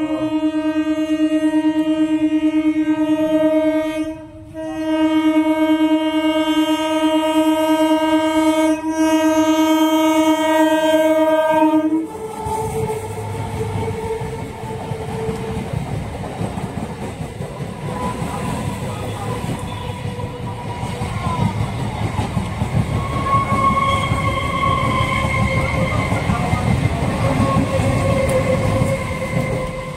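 Electric local train (EMU) sounding a long, steady horn for about twelve seconds, broken briefly about four seconds in. The horn stops and the coaches run past over the crossing with a continuous rumble and wheel clatter, and a faint higher tone rises near the end.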